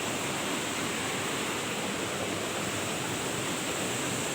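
Waterfall water rushing, a steady even roar of falling water.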